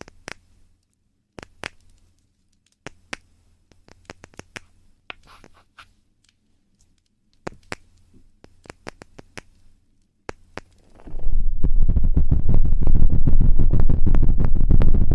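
Close-miked ASMR trigger sounds: faint scattered taps and clicks on the microphone. About eleven seconds in, a loud, dense scratching and rubbing directly on the microphone starts and keeps going.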